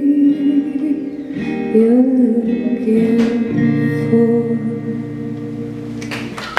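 Guitar ringing out sustained chords at the close of a slow song, with a wordless vocal line gliding over it. Audience applause starts right at the end.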